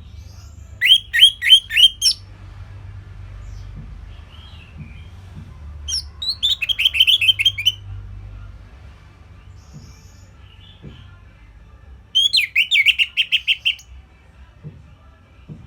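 Orange-headed thrush singing: three short phrases of quick repeated notes, each lasting a second or two, about five seconds apart.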